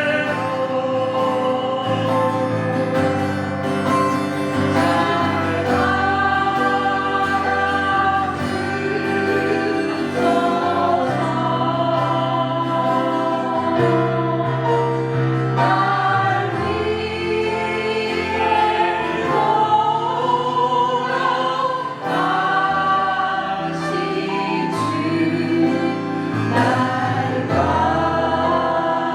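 Group of voices singing a Korean worship hymn in long held notes, with instrumental accompaniment and a sustained bass line.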